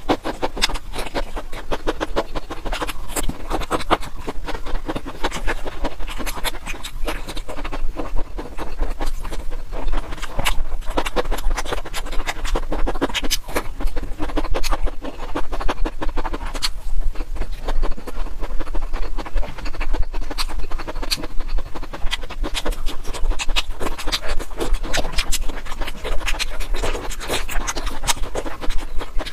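Close-miked chewing of broccoli: a dense, continuous run of wet crunches and clicks, with a steady low hum beneath.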